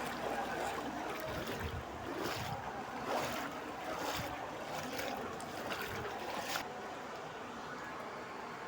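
Floodwater splashing and sloshing, with a string of short splashes through the first two-thirds and then a steadier wash of water.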